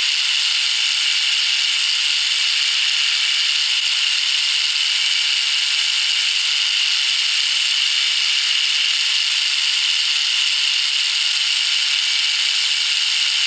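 Machine tool cutting a slot in a cold-rolled steel bar: a steady high-pitched cutting hiss and whine that does not let up.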